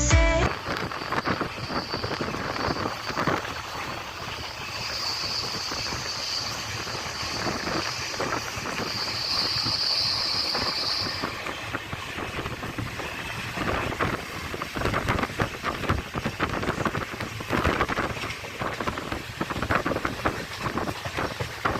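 Moving Indian Railways express train heard from on board: wheels rattling over the track with rushing wind noise. A thin, high whine runs through the first half.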